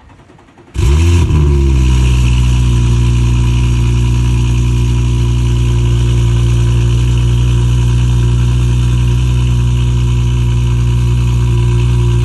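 Audi S4 B9's turbocharged 3.0-litre V6 cold-starting about a second in, with a brief rev flare on catching, then settling into a steady, loud fast cold idle through the exhaust.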